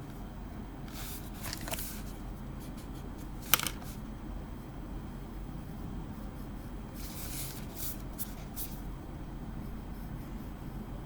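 Pencil shading on paper: short spells of graphite scratching and rubbing, with a sharp click about three and a half seconds in.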